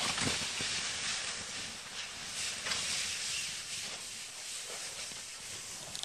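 Snowboard sliding and scraping over tough, choppy snow: a steady hiss that swells now and then as the board turns.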